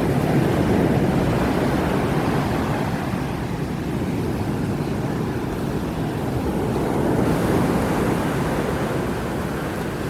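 Heavy surf rolling and breaking on a beach in strong wind, a continuous rushing rumble with wind buffeting the microphone. A wave breaks about seven seconds in, adding a louder hiss.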